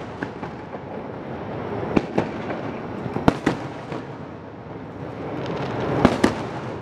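Aerial fireworks shells bursting: three pairs of sharp bangs, each pair a fraction of a second apart, over a continuous rumble.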